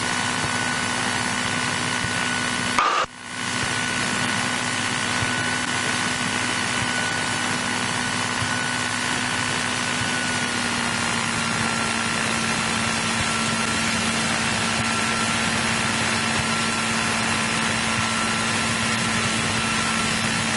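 The 1963 Cessna 172E's Continental O-300 six-cylinder engine idling steadily on the ground. There is a brief cut-out about three seconds in, and the engine's pitch drops slightly about ten seconds in.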